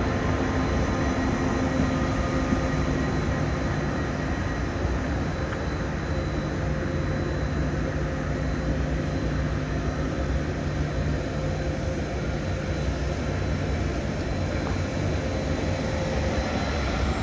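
Deutsche Bahn ICE high-speed electric train moving off along a station platform: a steady rolling rumble with a low, even electric hum.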